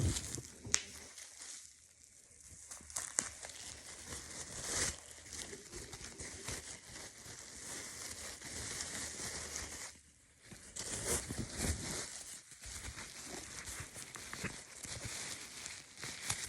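Irregular crinkling and rustling of something being handled, with scattered small sharp clicks.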